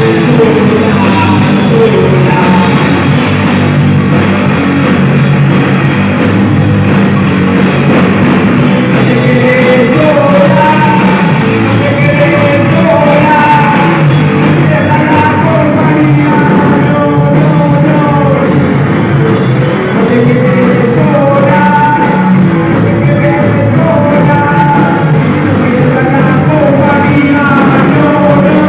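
Rock song played by a band: a lead voice singing over drums and guitars with a steady beat.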